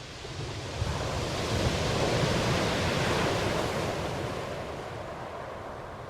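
Ocean surf: a single wave surge builds about a second in, is loudest in the middle, then washes away and fades near the end.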